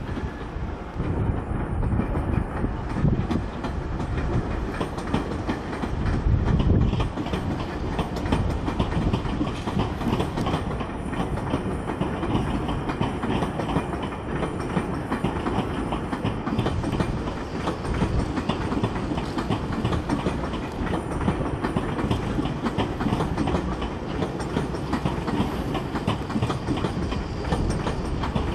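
Electric commuter train rolling slowly through depot tracks, its wheels clattering continuously over rail joints and points.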